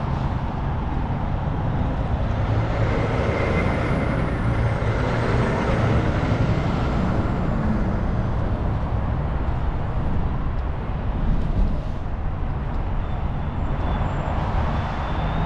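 Steady low rumble of a running vehicle engine with road and traffic noise.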